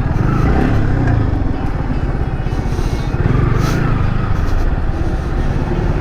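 Yamaha R15 V3's single-cylinder engine running steadily at road speed, under a heavy low rumble of wind on the microphone.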